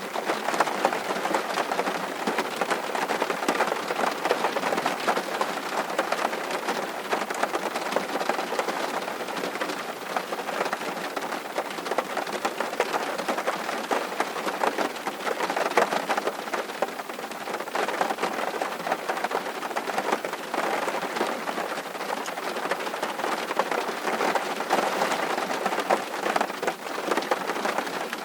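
Steady rain falling and pattering on surfaces, with a dense spray of fine drop impacts.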